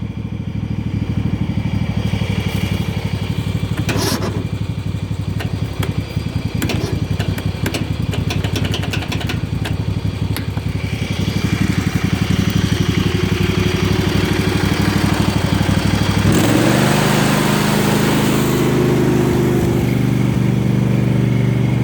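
Small lawn-tractor engine on a Yard Machines riding mower, turning over steadily with an even pulsing beat but not catching. It gets louder about 16 seconds in. The owner suspects it is out of gas or that the battery is weak.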